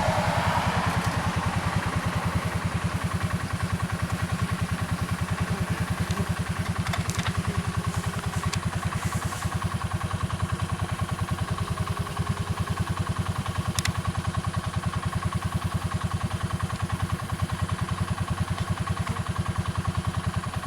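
An engine idling steadily with an even, rapid beat, and a few brief clicks.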